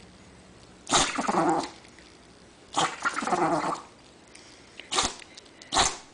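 A dog sneezing four times. Two fuller sneezes come about a second apart from each other early and midway, and two short, sharp sneezes follow close together near the end.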